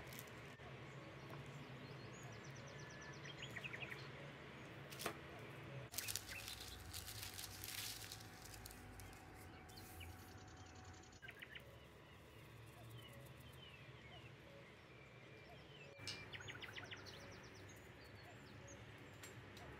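Faint birdsong, small birds chirping and giving short rapid trills now and then, over a low steady hum, with a few sharp clicks about five to seven seconds in.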